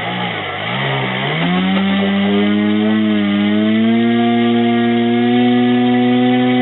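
Brushless RC airplane motor (rated about 950–980 kV) spinning a 10x6 three-blade propeller under throttle. The whine wavers in pitch for the first second or so, then climbs and settles into a steady drone that creeps a little higher near the end.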